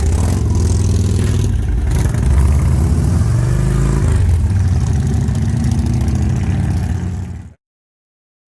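Motorcycle engine running loudly and steadily, then cutting off suddenly near the end, followed by silence.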